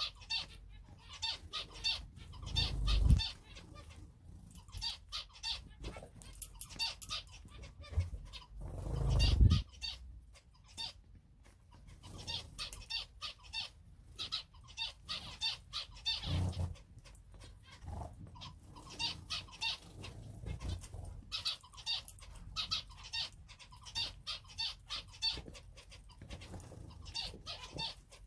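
Small cage finches calling: many short, quick high calls repeated throughout. Low rumbles about 3 and 9 seconds in, and a smaller one about 16 seconds in, are louder than the calls.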